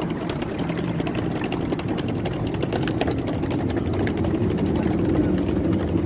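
Diesel-hauled passenger train's engine running steadily with a low hum, light rattling clicks over it, growing slightly louder in the second half.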